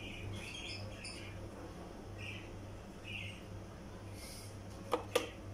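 Short high bird chirps at irregular intervals over a low steady hum, with two sharp clicks close together near the end.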